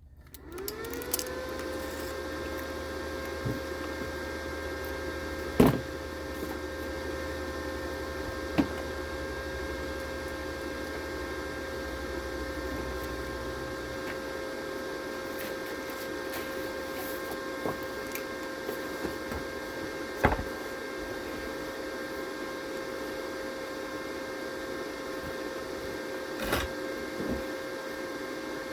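A small electric motor spins up about a second in and then runs at a steady pitch, with a few short knocks along the way.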